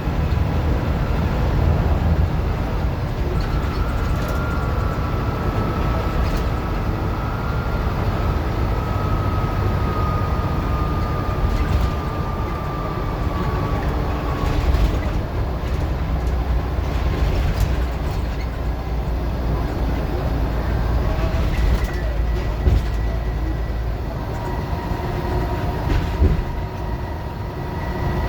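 Scania N94UD OmniDecka double-decker bus heard on board while driving: a steady low engine rumble, with a drivetrain whine that slowly falls in pitch, and new whines starting near the end.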